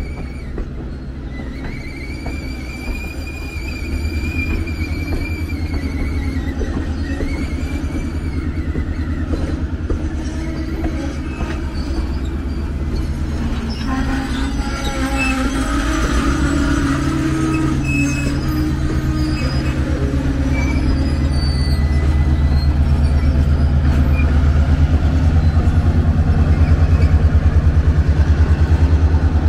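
Passenger train rolling slowly past: wheel flanges squeal in a high pitch that rises and falls during the first several seconds and again around the middle, over the rumble of the coaches on the rails. A diesel locomotive's low, steady engine drone grows louder toward the end as it draws near.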